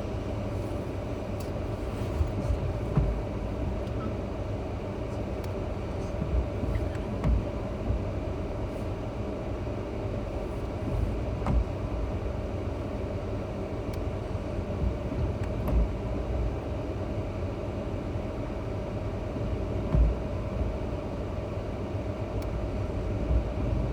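Road noise inside a moving car's cabin: a steady low rumble with a steady hum and scattered light bumps.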